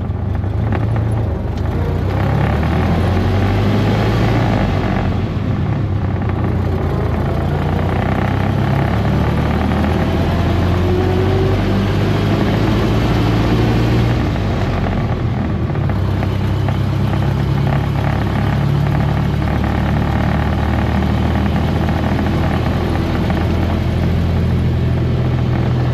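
1927 Dodge Brothers Fast Four's four-cylinder engine running steadily. Its pitch shifts about four seconds in and again about fifteen seconds in.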